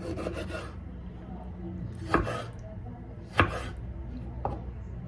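Knife chopping on a cutting board: a quick run of light cuts at the start, then two heavier knocks a little over a second apart in the middle and a lighter one near the end.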